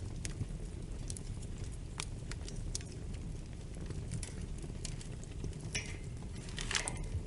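Wood fire crackling in a fireplace: a steady low rumble of flames with scattered sharp pops, and two louder bursts of crackling near the end.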